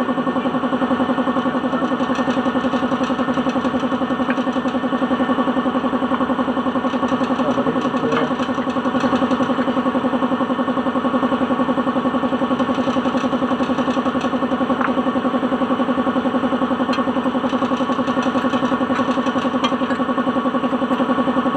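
Suzuki DA16 engine running steadily at idle, its pitch holding even throughout.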